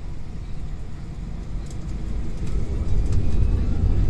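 Airbus A320's jet engines and airframe giving a low, steady rumble that grows louder about three seconds in, typical of thrust coming up for the take-off roll, with a few faint light rattles.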